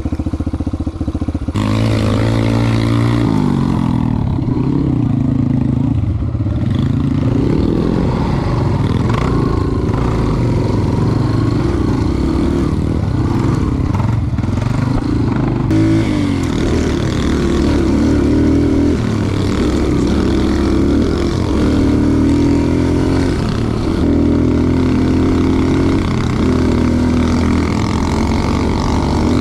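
Dirt bike engine running under way, its pitch rising and falling over and over with the throttle.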